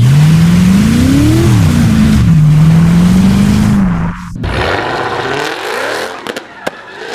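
Car engine revving hard, its pitch climbing and falling, over a loud haze of tire noise, as in a burnout or donuts. The sound drops off suddenly about four seconds in, leaving quieter engine sound with a few sharp clicks.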